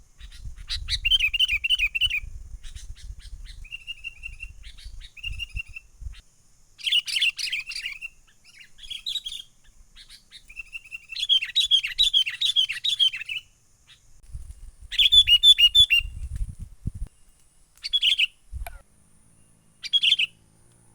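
Sooty-headed bulbul (kutilang) calling again and again in short bursts of quick, bubbling chattering notes, several phrases with pauses between, ending in two short single calls. A low rumble, like wind on the microphone, runs under the first few seconds and again in the middle.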